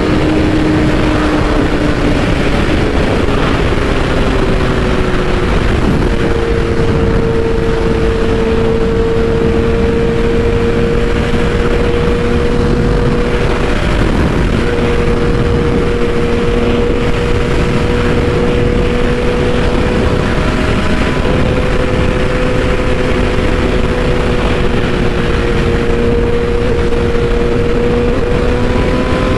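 BMW S1000RR's inline-four engine running at a steady cruise under the rider, with wind rushing over the microphone. The engine note holds nearly level, with short breaks in pitch about 14 and 21 seconds in and again near the end.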